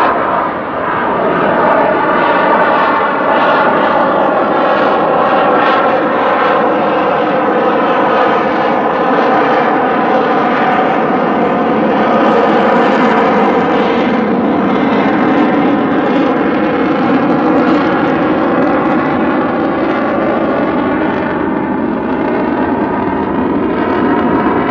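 F-22 Raptor's twin jet engines, loud and continuous, with a slowly shifting whooshing tone as the fighter moves across the sky.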